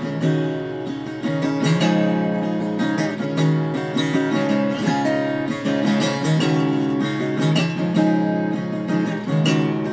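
Acoustic guitar strummed, an instrumental break between sung verses.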